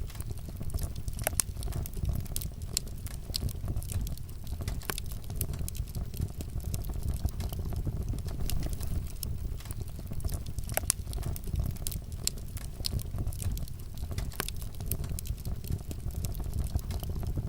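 Wood fire crackling, with frequent sharp irregular pops over a steady low rumble of the flames.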